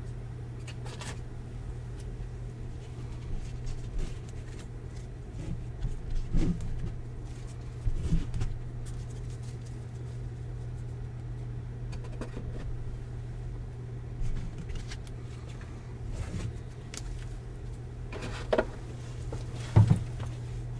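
A steady low hum with scattered light knocks and clicks as items are moved around on a tabletop. The loudest knocks come near the end.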